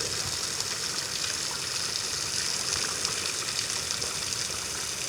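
Low-running waterfall: a thin flow of water falling and splashing with a steady hiss.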